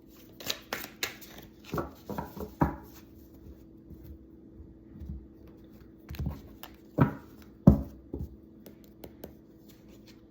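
A deck of tarot cards being handled: a run of sharp card slaps and taps in two clusters, as cards are shuffled and drawn, over a faint steady hum.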